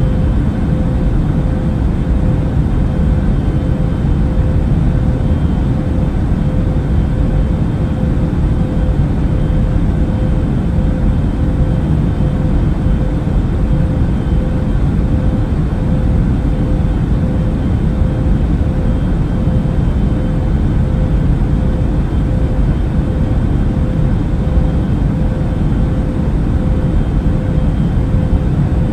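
Airplane cabin noise in flight: a steady, unbroken low rumble of engines and airflow with a constant hum running through it.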